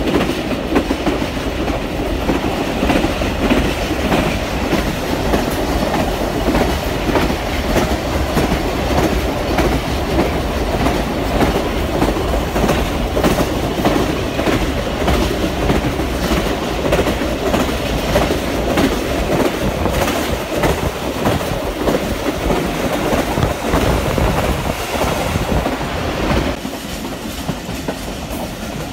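Rehman Baba Express passenger train running at speed, heard from aboard a coach: a steady rumble with rapid clicking of wheels over the rails. It gets a little quieter near the end.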